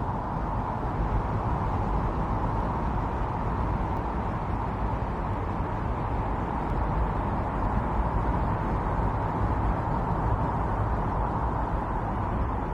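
Strong winter storm wind blowing steadily, a dense rushing noise that swells slightly and eases back.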